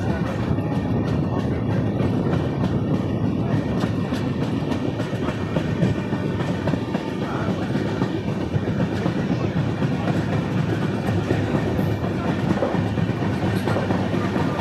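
Moving passenger train heard from inside the coach: a steady low rumble with the clatter of wheels on the rails, the clicks most marked in the first few seconds.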